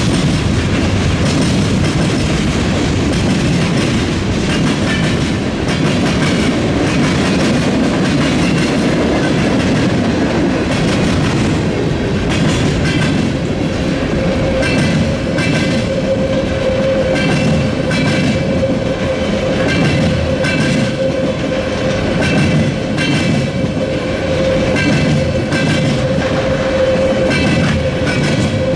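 Freight train rolling across a railroad diamond, its wheels clattering in a steady run of clicks over the crossing rails. A steady ringing tone comes in about halfway and holds.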